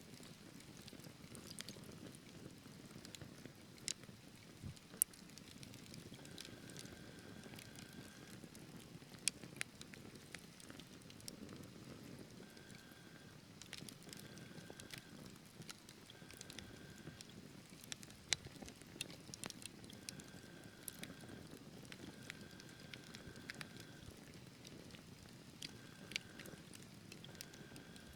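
Wood fire burning in a fireplace: irregular sharp crackles and pops over a low, steady rush of flame. A faint high whistle comes and goes several times.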